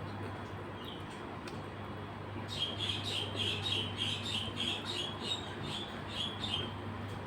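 A bird chirping: a quick run of short, high chirps, about three a second, lasting about four seconds and starting a couple of seconds in, over a steady low hum.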